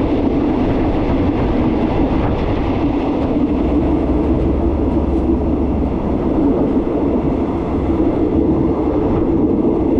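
Steady rumble of a sleeper train running, heard from inside the passenger carriage.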